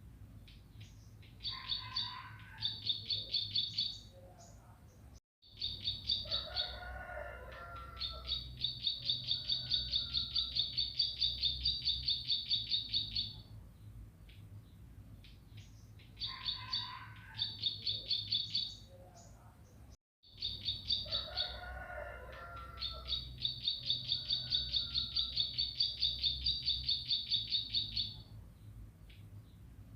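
A ciblek pari, a small prinia, singing a fast song of rapidly repeated high notes that run into long, even trills, mixed with lower chattering phrases. The recording is a loop: it cuts out briefly twice and the same song sequence repeats, over a faint steady hum.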